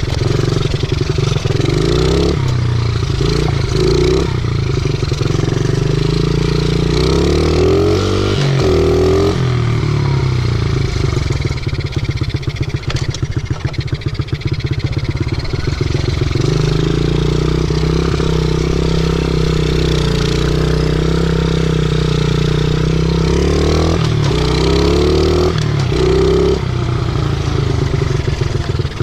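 50cc pit bike's small single-cylinder engine running under way, its pitch rising and falling with the throttle. It eases off to a lower, quieter note near the middle, then pulls back up.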